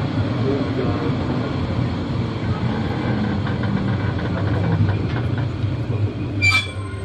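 Carriage of the Molli narrow-gauge railway rolling into a station, heard from inside the coach: a steady low rumble with light wheel clatter. Near the end comes one sharp metallic clank with a brief ring.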